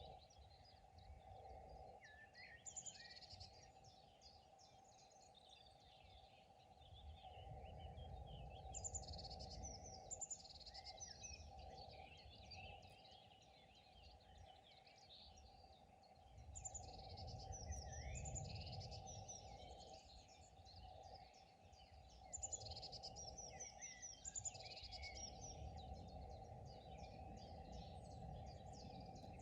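Faint outdoor ambience of several small birds chirping and trilling, busier at times and thinner at others, over a low rumble that swells and fades.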